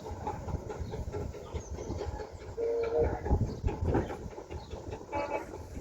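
Romney, Hythe & Dymchurch Railway miniature train running, with a continuous rumble and clattering wheels. Two short pitched sounds come through, one near the middle and one near the end.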